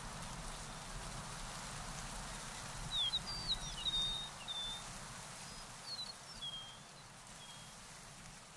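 A songbird singing a quick run of chirps and short whistles starting about three seconds in, over a steady hiss of outdoor background noise.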